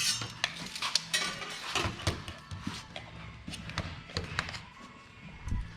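Scattered light taps, clicks and clatter of tools and parts being handled during hands-on work, coming at irregular intervals and thinning out near the end.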